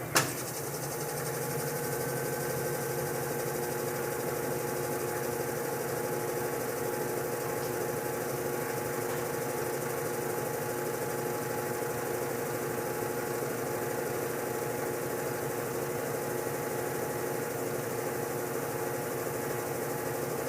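Brastemp/Consul washing machine in its spin cycle: a sharp click just after the start, then a steady motor hum with a held whine. This is the spin-cycle noise being shown as the fault.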